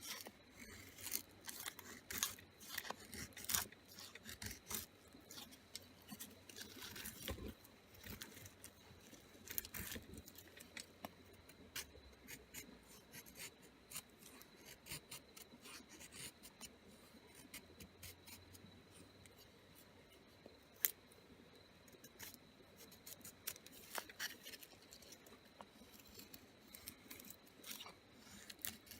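Knife blade shaving a stick into a feather stick: short, faint scraping strokes in irregular runs.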